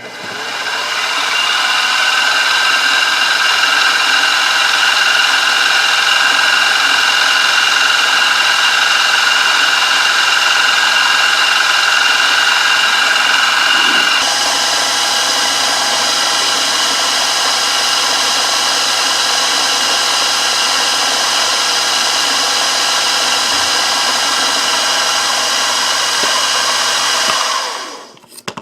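Milling machine spindle running steadily with a whine of several steady tones while a small hole is drilled slowly into a brass part. It spins up at the start, its tone shifts and drops slightly about halfway through, and it winds down near the end.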